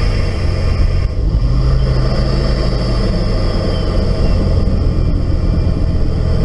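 Ford 2.5-litre turbocharged five-cylinder Duratec engine running steadily, a continuous low rumble with a steady high-pitched note over it.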